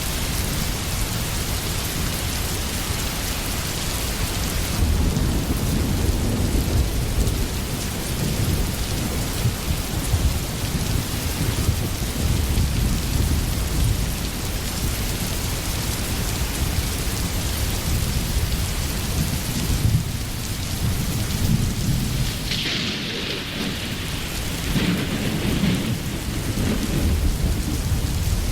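Steady rain with low rolling rumbles of thunder that build about five seconds in and swell again near the end.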